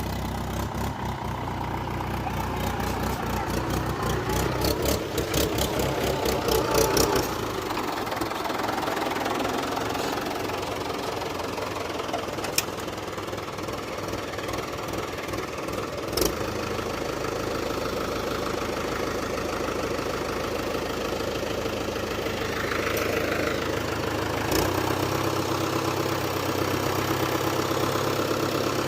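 Diesel engine of working earthmoving machinery running steadily, with a rapid clattering pulse for the first seven seconds and a few single sharp knocks later on.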